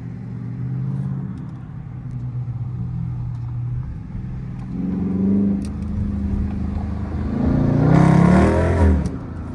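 2022 Dodge Charger R/T's HEMI V8 exhaust with the mid mufflers deleted, resonators kept, and 5-inch tips. It runs with a steady, deep drone at light throttle, then rises in pitch and volume as the car accelerates hard. The loudest surge comes near the end and drops off sharply.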